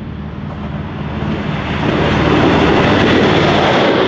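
Single-car diesel passenger railcar approaching and passing at speed: a steady engine drone under wheel-on-rail noise that grows louder from about a second in and is loudest in the second half as it goes by.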